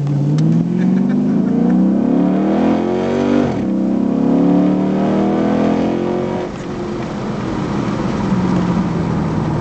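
Chrysler 300C SRT8's Hemi V8 at full throttle, heard inside the cabin: the engine pitch climbs, drops sharply at an upshift about three and a half seconds in, and climbs again. About six and a half seconds in the rising pitch falls away and it runs on lower and steadier.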